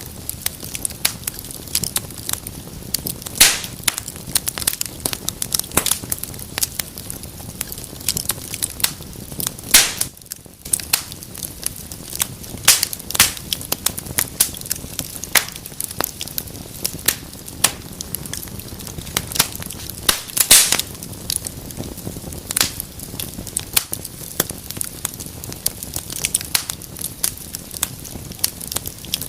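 Wood fire burning in a fireplace, crackling: a dense run of small snaps and sharper single pops over the low, even hiss of the flames.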